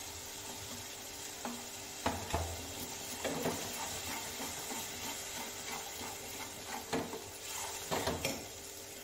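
Ground masala paste frying in oil in a metal kadai with a steady sizzle. From about two seconds in, a spatula stirs and scrapes it, with irregular knocks against the pan.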